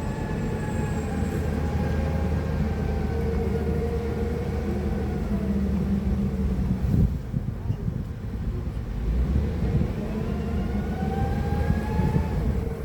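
Electric stand-up forklift running under operation: a steady low hum with a motor whine that rises and falls in pitch. The whine drops away about seven seconds in and climbs again near the end.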